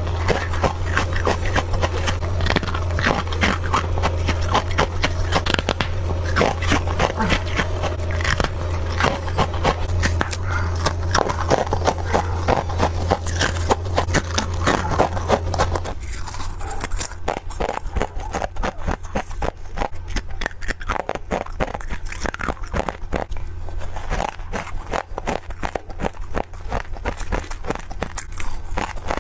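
Rapid, continuous crunching of freezer frost and ice being bitten and chewed, many small cracks a second. A low steady hum underneath stops about halfway through.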